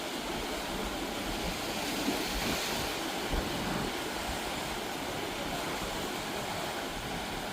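Steady wash of sea surf with wind buffeting the microphone in low, uneven rumbles.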